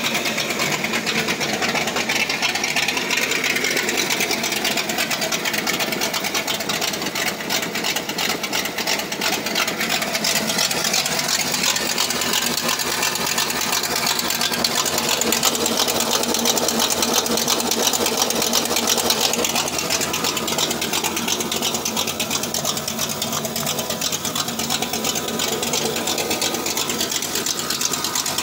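Newly built carbureted V8 in a 1998 Ford Mustang running at a steady idle, with a fast, even ticking over the engine note.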